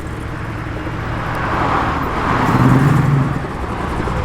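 A car driving slowly past at low revs, its engine and tyres growing louder to a peak about three seconds in, then easing off.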